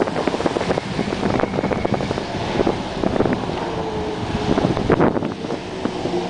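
Sea-Doo GTI 155 personal watercraft running on the water, its Rotax three-cylinder four-stroke engine partly buried under heavy wind buffeting on the microphone.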